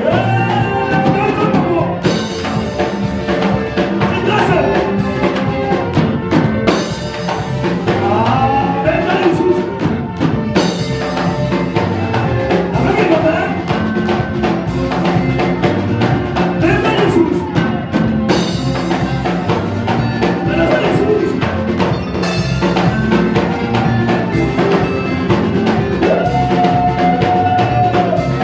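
Worship band music with a drum kit keeping a steady beat and voices singing over it; one long note is held near the end.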